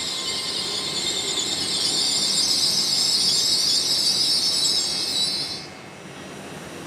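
Train at the station platform with a loud, high hissing that builds and then cuts off abruptly about five and a half seconds in. A faint steady buzz tone runs underneath.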